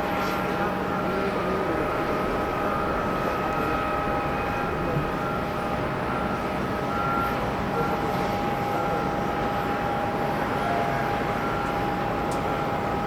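Jet airliner's engines running steadily with a constant whine on the landing approach.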